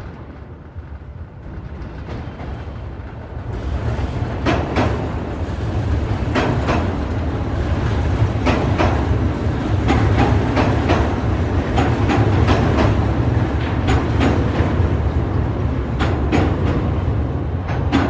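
Steady low running rumble of a moving vehicle. It grows louder a few seconds in, with sharp clicks in close pairs every one to two seconds, as of wheels crossing joints.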